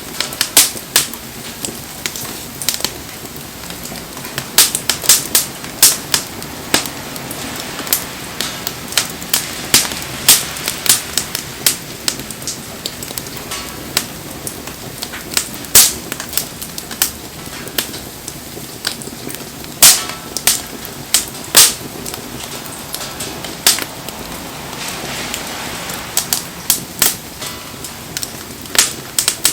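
Wood bonfire crackling, with frequent sharp, irregular pops over a steady hiss of rain.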